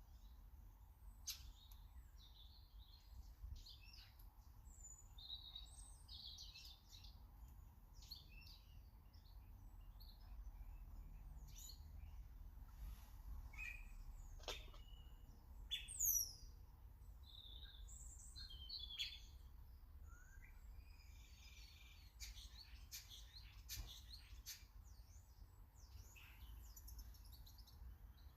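Garden birds chirping and calling faintly, many short high chirps scattered throughout, with one louder call sweeping downward about sixteen seconds in, over a faint low background rumble.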